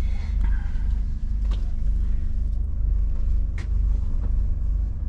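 Low steady rumble of an Indian Railways AC sleeper coach running, heard from inside the carriage, with two sharp clicks about two seconds apart.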